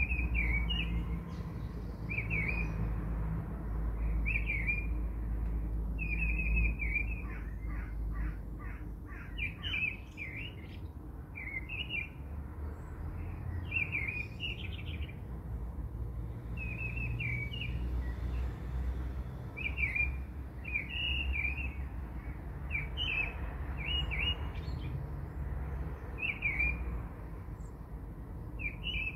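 Small birds chirping, short high chirps repeating every second or two, over a steady low hum.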